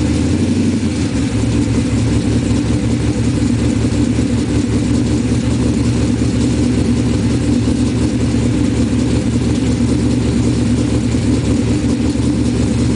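Car engine and exhaust idling steadily, the revs dropping back and settling to idle about a second in.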